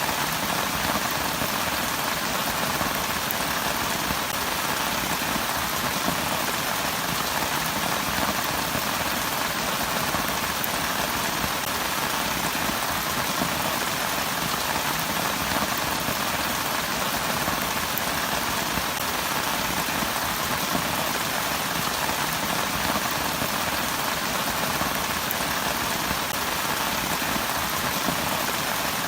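Steady rain falling, an even hiss of drops on surfaces with no letup.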